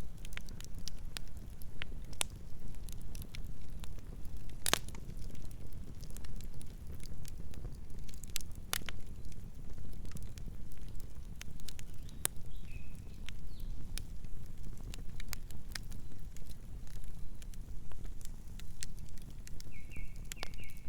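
Campfire burning: wood crackling with irregular sharp pops over a steady low rumble, the loudest pop about a quarter of the way in.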